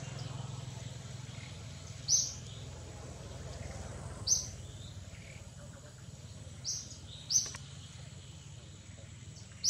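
A bird chirping: short high single chirps, five in all, a second or two apart, over a low steady hum.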